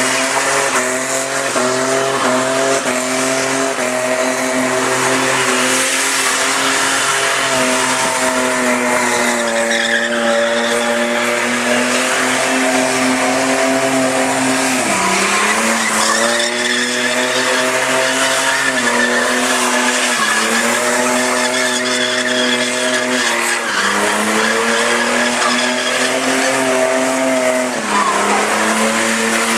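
Car doing a burnout: engine held at high revs while the spinning tyres squeal. The revs dip briefly and climb back about four times in the second half.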